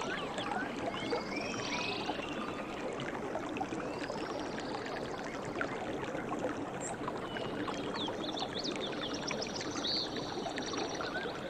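Stream water running and splashing steadily.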